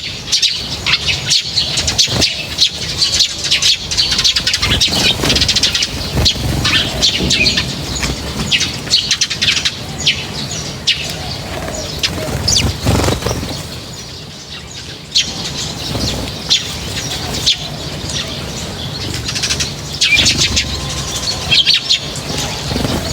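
Small birds chirping rapidly and continuously, with scattered short clicks among the calls; the chirping thins out briefly a little past the middle.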